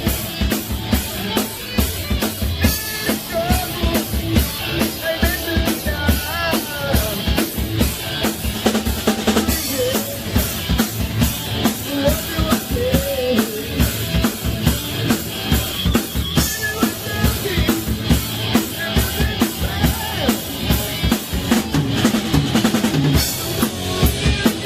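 Live rock band playing heavy metal: a drum kit keeps a steady, driving beat under wavering melodic lead lines, played loud.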